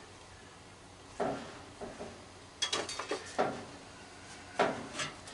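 A handful of sharp metallic clicks and light clunks, irregularly spaced, from parts and tools being handled inside an old microwave being taken apart.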